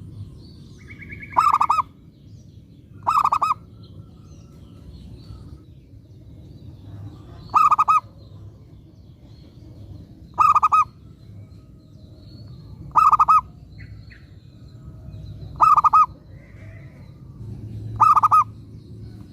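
Zebra dove (perkutut) cooing: a short, pulsed coo repeated seven times, one every two to three seconds, over a low background rumble.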